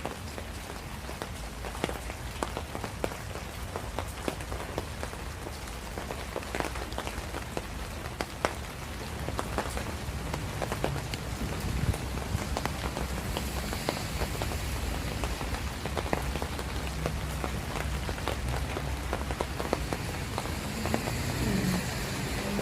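Steady rain falling, with many separate drops ticking on hard surfaces over a low rumble. It gets a little louder about ten seconds in.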